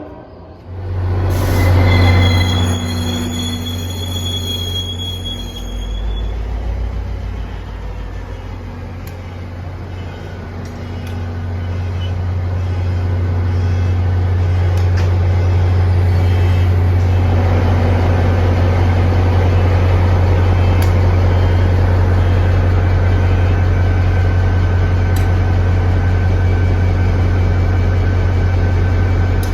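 A train's diesel locomotive running loud and steady, a deep hum that swells after about 12 seconds and holds. A brief high-pitched squeal with several steady tones comes about two seconds in and stops about six seconds in.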